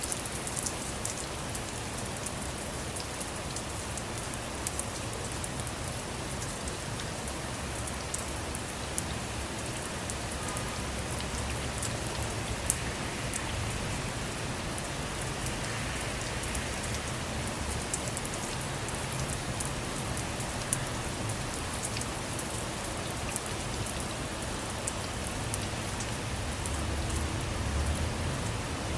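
Steady rain on a car, with many sharp ticks of single drops striking over the constant hiss. A low rumble swells near the end.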